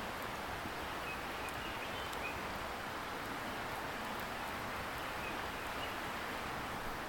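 Steady rushing hiss of a distant river, with a few faint, sparse crackles from a wood bonfire.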